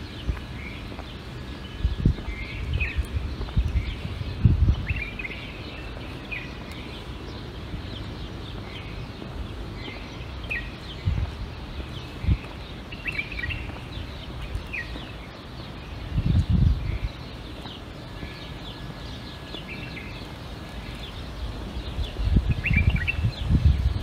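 Small birds chirping: short, scattered high chirps throughout. Irregular low rumbles come and go underneath and are the loudest sound, strongest about halfway through and near the end.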